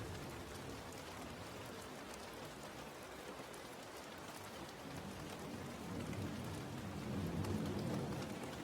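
Steady rainfall with scattered drop ticks. A low rumble fades out at the start and swells again in the second half.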